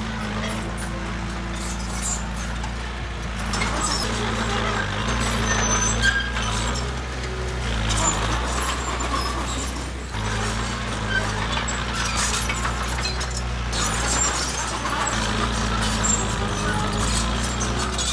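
Heavy diesel earthmoving machinery running under load, its engine note rising and falling, with gritty rattling and scraping through it.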